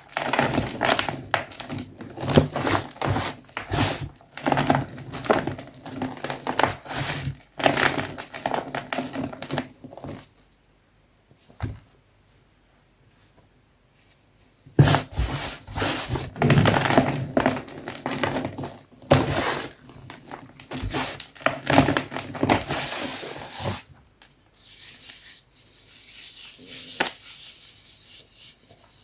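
Soft gym chalk being crushed: a dense run of crunches and crumbles that stops for about four seconds a third of the way in, then starts again. Near the end it turns into a fainter, steadier crumbling.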